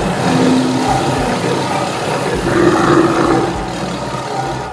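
Animal stampede sound effect: a dense, steady rumble with animal roars and calls mixed over it.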